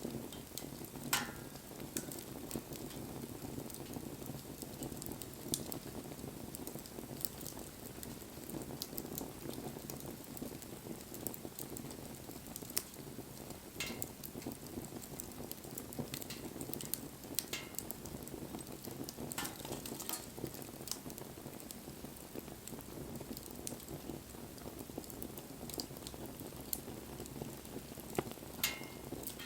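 Wood fire burning with a steady hiss and frequent crackling pops, a few louder pops among them, one about a second in and another near the end.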